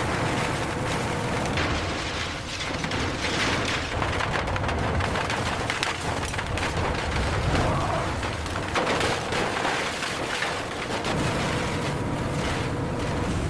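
Dense, steady industrial machinery noise: a heavy rumble with continual clattering and knocks, and a faint steady hum.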